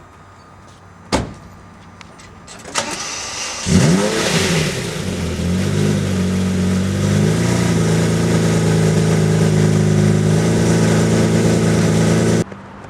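Lamborghini Murcielago LP640's 6.5-litre V12 cranking and catching about four seconds in with a sharp rev flare, then settling into a steady fast idle. A click comes about a second in, and the engine sound cuts off suddenly near the end.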